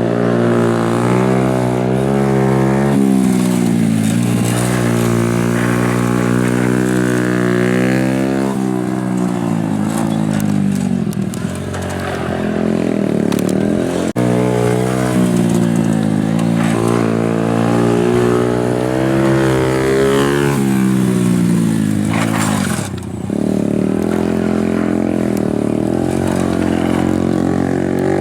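Honda Super Cub single-cylinder four-stroke engine running hard through a RAIJIN aftermarket racing muffler. The exhaust note climbs, holds and falls in pitch again and again as the bike accelerates and slows. The throttle is briefly shut twice, about a third of the way in and again near the end.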